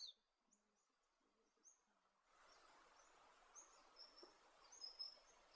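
Faint bird calls: short high chirps repeated every second or so. A faint outdoor hiss comes in suddenly about two seconds in.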